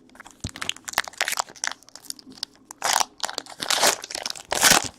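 Crinkling and crackling of trading card packaging being handled and opened, with quick light clicks and a few louder rustles near the end.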